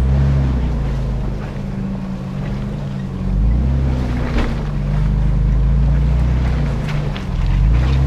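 A 4x4 truck's engine running at low revs on an off-road trail, swelling and easing with the throttle. A few short knocks and rattles from the body and suspension come over bumps, the clearest about four and seven seconds in.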